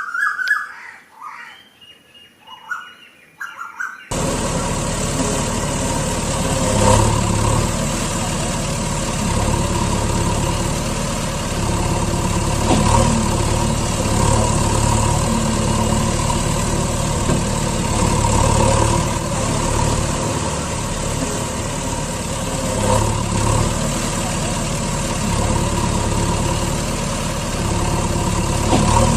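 Brief chirping for the first few seconds, then an abrupt cut to a heavy diesel engine running steadily, with small swells in loudness every few seconds.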